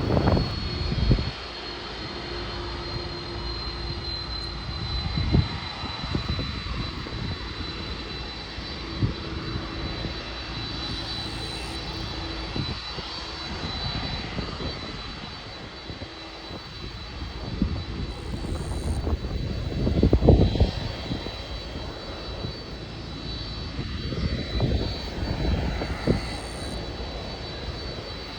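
Airliner engines running on the airport runway: a continuous engine noise with a steady high whine, broken by low thumps, the loudest about twenty seconds in.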